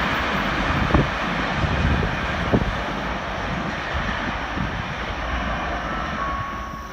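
A passing train running away along the track: an even rumble of wheels on rail that slowly fades, with sharp clicks about one and two and a half seconds in.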